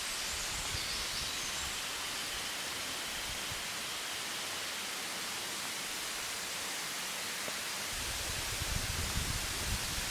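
Steady rushing of a waterfall, an even hiss of falling water. About eight seconds in, a low, uneven buffeting rumble joins it.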